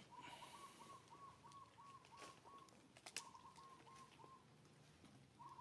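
A bird calling faintly: runs of short, evenly spaced notes at one pitch, about three a second, in two runs with a third starting near the end. A single sharp click about three seconds in.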